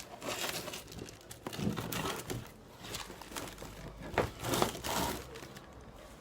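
Packaging being handled and moved aside: irregular crinkling and rustling with a few short knocks, the loudest about four seconds in.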